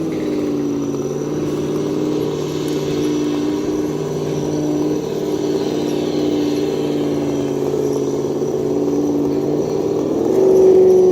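Simulated V8 engine sound from an ESS Dual sound module on an RC scale crawler, played through its small speaker. The revs fall right at the start, hold low and steady, then rise again about ten seconds in.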